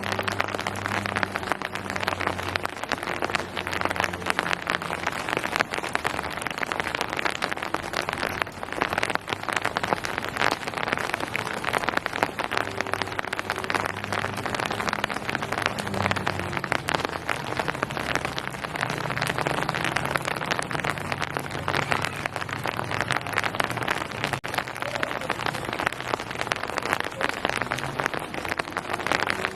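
Steady rain pattering on surfaces, a dense hiss packed with the ticks of single drops. A faint low hum comes and goes beneath it.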